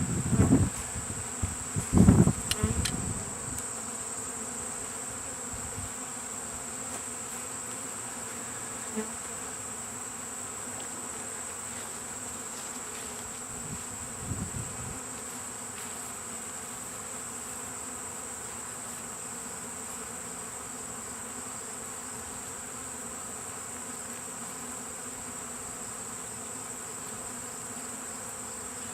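Honeybee swarm buzzing, a steady hum from the mass of bees around the hive box. A few low knocks sound in the first three seconds.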